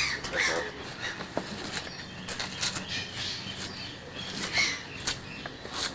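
Aviary birds calling, with short scattered chirps and sharp clicks.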